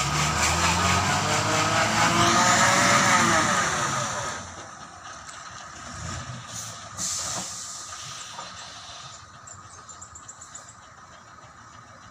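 Lorry engine revving hard, its pitch rising and then falling, for about four seconds before it drops back and runs quieter.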